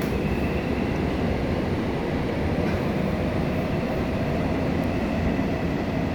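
Busan Metro Line 1 Woojin-built new train running between stations, heard from inside the car: a steady rumble of wheels and running gear with a faint, steady high whine.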